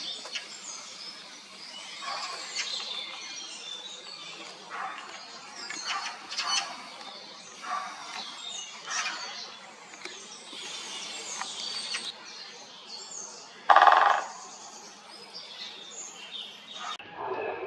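Several small birds singing and chirping together, with high, quick, varied notes. About fourteen seconds in there is one louder, lower call lasting about half a second.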